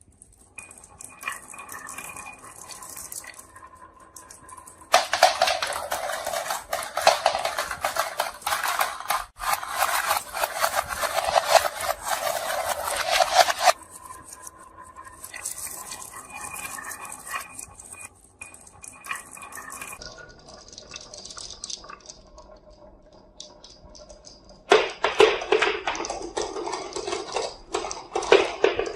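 Marbles rolling and clattering down a wooden marble run. There are two long stretches of dense, loud rattling, from about five seconds in to about fourteen and again from about twenty-five seconds, with quieter rolling and clicking between them.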